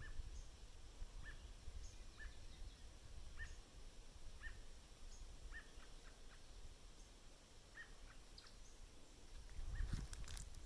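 A bird giving short, repeated call notes, roughly one a second, faint over a low rumble of wind.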